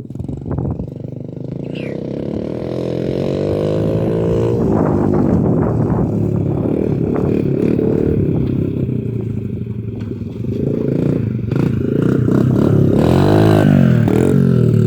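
Dirt bike engine running and revving, its pitch climbing over the first few seconds and rising and falling again near the end.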